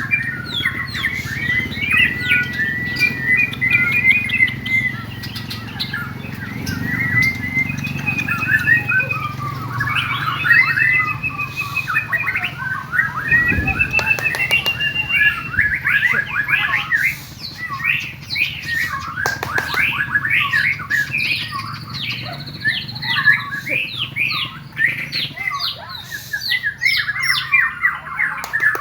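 Caged songbirds at a songbird contest practice singing over one another in a continuous, fast stream of chirps, trills and whistles.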